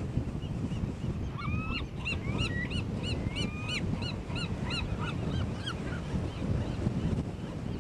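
Birds calling in a rapid run of short, arched calls, several a second, for a few seconds in the middle, over a steady low wind rumble on the microphone.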